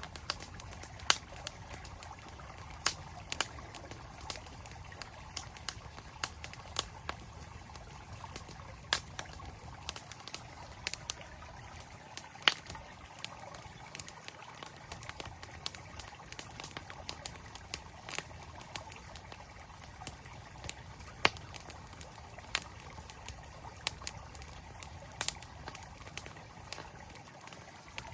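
Campfire wood crackling, with many sharp, irregular pops and snaps, a few much louder than the rest, over the steady rush of a flowing stream.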